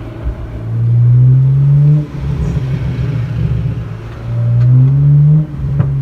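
Muffler-deleted BMW 335i's turbocharged inline-six exhaust under two hard accelerations, the note rising in pitch and cutting off abruptly at each upshift or lift. A sharp pop from the exhaust comes near the end: a backfire.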